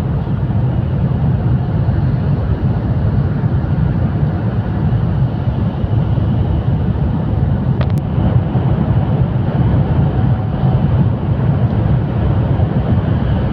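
Steady, loud rumbling rush of a high-speed train running, with one brief click about eight seconds in.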